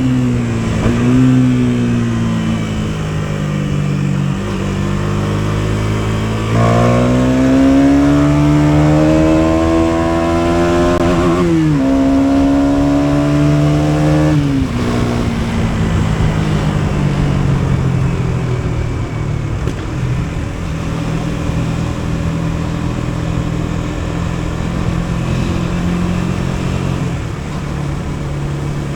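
KTM Duke 250's single-cylinder four-stroke engine under way: the revs climb for about five seconds, drop sharply at a gear change near the middle, hold briefly, then fall away as the throttle is eased and the engine runs on at lower, steadier revs.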